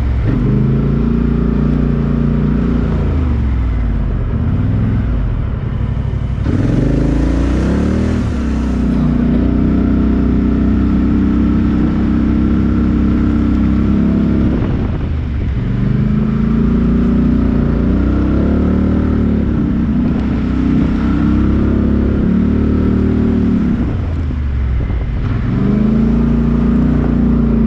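An off-road vehicle's engine running hard, its revs falling and climbing again several times as it works under load. A burst of hissing noise lasts about two seconds, some six seconds in.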